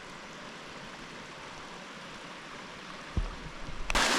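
Steady rush of flowing creek water over the canyon rock. There is a low thump about three seconds in, and a much louder rush of water comes in near the end.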